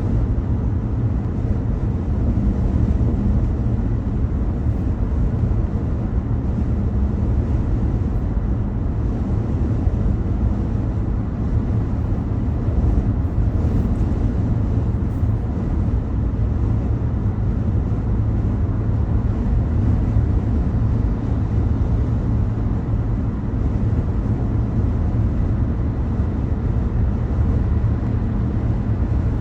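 Steady low rumble of a car being driven: road and engine noise at an even level throughout.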